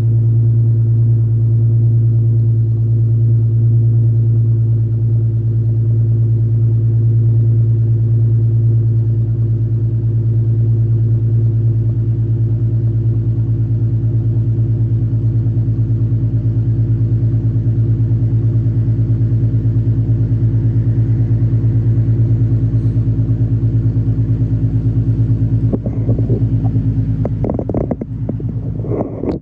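Infiniti Q50's 3.7-litre VQ37VHR V6 idling steadily through a muffler-deleted exhaust after a cold start, a deep, even drone. Brief irregular noises come in near the end.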